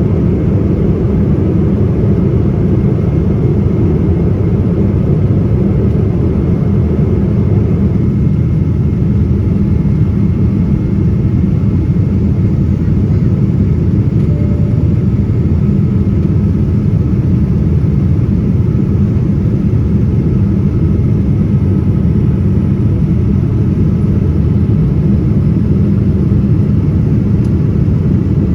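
Steady in-flight noise of a Boeing 787-9 airliner: a continuous low rumble of engines and airflow, even and unchanging, with faint steady tones above it.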